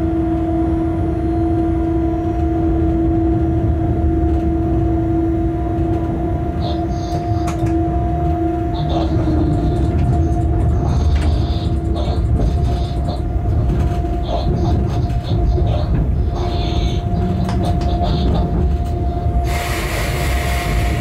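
Freight train cab at speed: a steady rumble of wheels on rail under a constant two-note hum, with short high squeals and clicks as it runs over points, and a brief hiss near the end.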